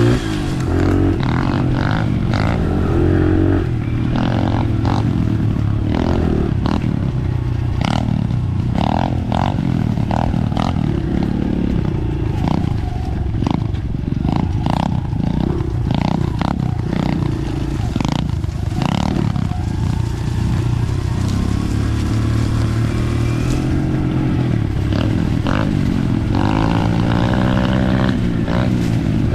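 Dirt bike engine running under way on a trail, revving up and falling back again and again as the throttle is worked, with scattered knocks and clatter from the rough ground.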